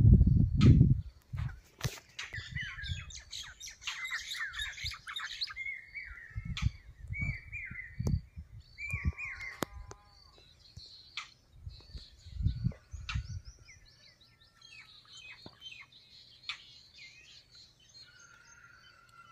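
Birds chirping and twittering: quick high chirps in a burst over the first few seconds, then clear whistled notes that slide down in pitch, with scattered calls fading out toward the end. Low thuds break in at the start and twice more.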